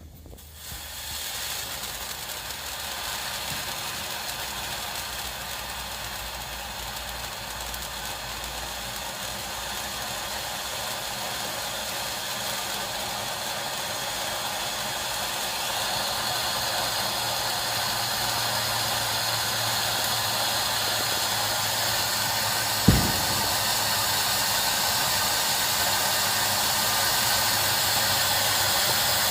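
Firework fountain spraying with a steady hiss that starts suddenly and slowly grows louder, with a single sharp thump about three-quarters of the way through.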